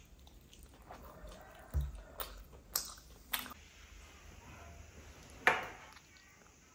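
Close-up eating mouth sounds while chewing a sticky dessert: wet clicks and smacks, a handful of sharp ones, the loudest about five and a half seconds in.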